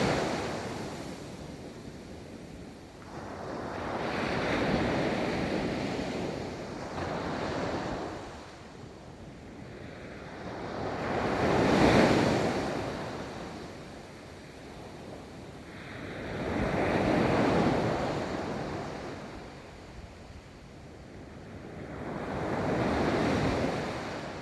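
Ocean waves breaking on a beach, each surge of surf swelling and fading away about every five to six seconds; the loudest breaks about halfway through.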